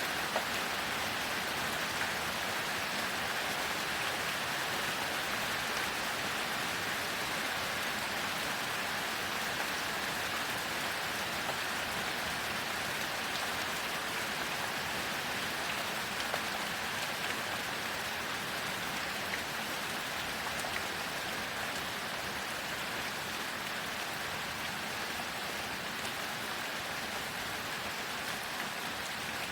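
Heavy rain falling steadily, an even hiss with a few louder single drop ticks now and then.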